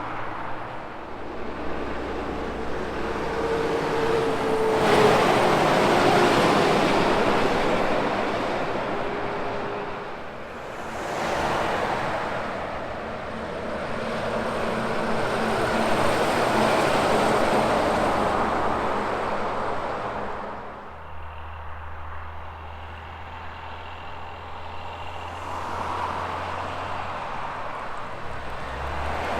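Highway traffic with semi trucks passing one after another. The tyre and engine noise swells and fades with each pass, about four times, and is loudest about five seconds in.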